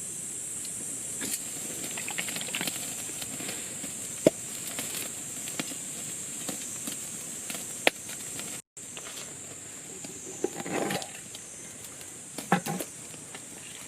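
Campfire crackling with scattered sharp pops, over a steady hiss. Near the end come a few short clusters of clattering knocks from camp gear being handled.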